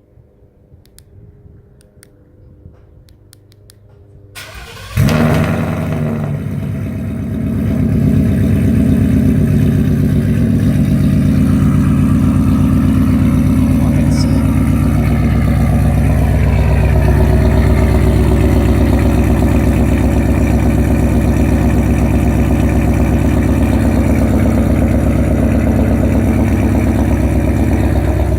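2017 Mustang GT's 5.0 L Coyote V8 cold-starting through long-tube headers, an X-pipe and Flowmaster Outlaw mufflers. After a few faint clicks, the starter cranks about four seconds in and the engine catches with a loud flare, dips briefly, then settles into a loud, steady cold idle.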